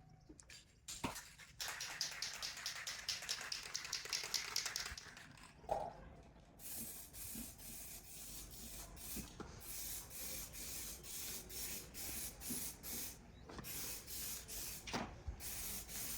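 A spray hissing for a few seconds, then a run of short hissing strokes, about two a second.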